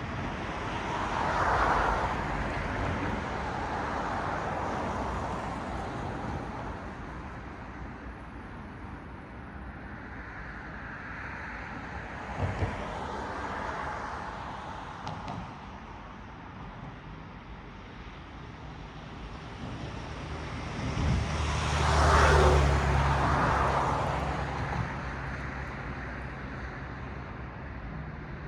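Cars passing one at a time on a road, each a swell of tyre and engine noise that rises and fades. The loudest pass comes near the end, with a deep engine rumble under the tyre noise.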